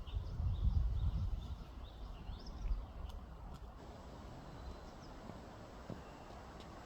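Small birds chirping: quick, short high calls repeated many times, thickest in the first three seconds and picking up again near the end. A low rumble sits under them during the first three seconds.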